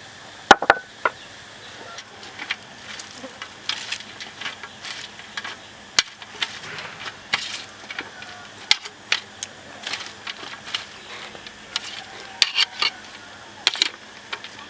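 Close-up eating sounds: irregular clicks, smacks and short crunches, with the sharpest click about half a second in.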